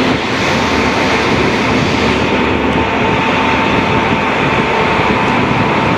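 Train running: a steady rumbling rush of noise with a faint, steady high whine.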